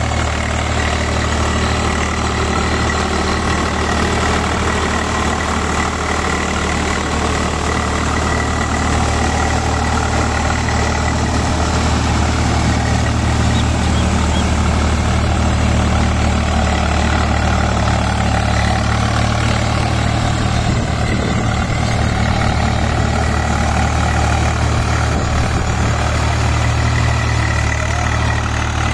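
Swaraj 744 XM tractor's three-cylinder diesel engine running steadily at constant speed.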